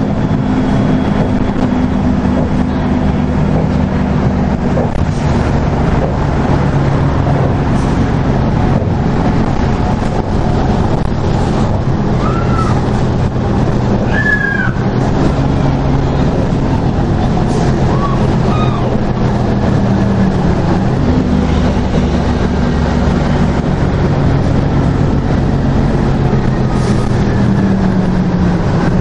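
A 2002 NABI 40LFW transit bus's Detroit Diesel Series 50 engine running steadily under way, with a brief dip and recovery in engine pitch about twenty seconds in. A few faint short squeaks come near the middle.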